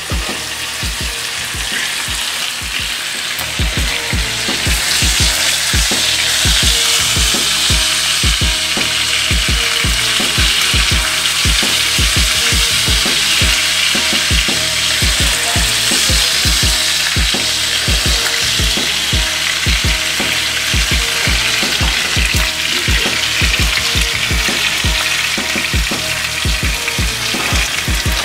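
Chicken pieces frying and sizzling in a hot skillet as they are laid into the pan with tongs. The sizzle grows louder about five seconds in and then holds steady.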